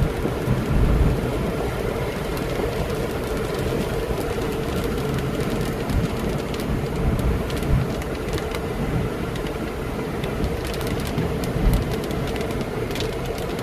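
Thunderstorm: a steady low rumble under heavy rain, with raindrops ticking sharply and often in the last few seconds.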